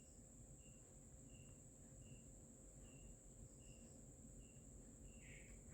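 Faint insect sounds: a steady high-pitched drone, with a short cricket chirp repeating about every three-quarters of a second.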